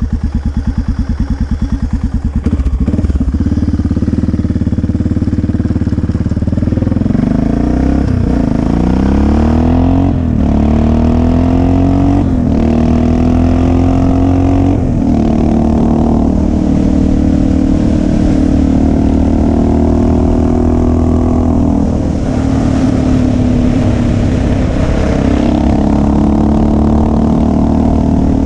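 Motorcycle engine idling with an even, pulsing beat, then pulling away and accelerating through several gear changes, the pitch rising and dropping back at each shift before settling into a steady cruise.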